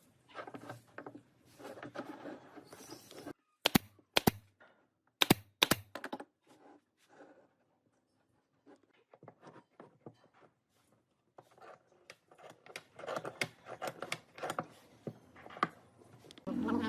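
Irregular clicks and knocks of small hard objects being handled, with four sharp louder clicks between about three and six seconds in, a short lull, then a run of quicker, quieter clicking.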